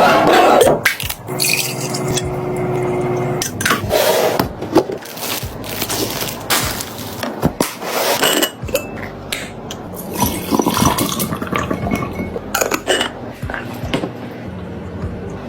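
Repeated clinks, taps and knocks of food containers and jars being handled and set down while a refrigerator is restocked.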